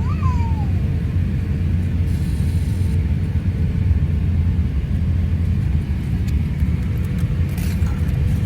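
Steady low rumble inside the cabin of an Airbus A350-1000 on the ground after landing at Heathrow, with a faint steady hum under it. A short gliding squeak comes right at the start, and a few light clicks come near the end.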